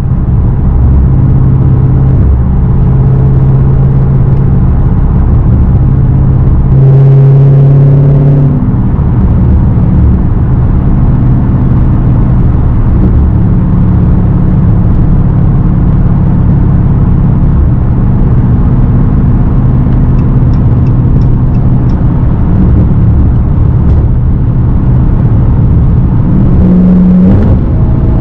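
Straight-piped Dodge Hellcat's supercharged V8 exhaust under way, very loud and rumbling, with a harder pull about seven seconds in and a brief rise in engine speed near the end.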